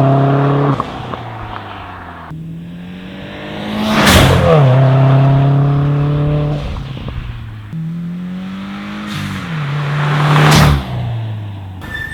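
A 2015+ Subaru WRX/STI's turbocharged flat-four engine running through a quad-tip catback exhaust as the car drives past, twice. Each time the engine note swells as the car nears and its pitch drops as it goes by.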